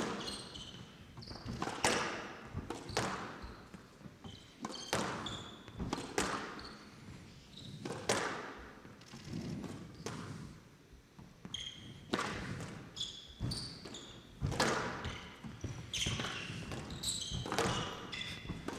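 Squash rally: the ball struck by rackets and smacking off the walls roughly once a second, with short high squeaks from players' shoes on the court floor between strikes.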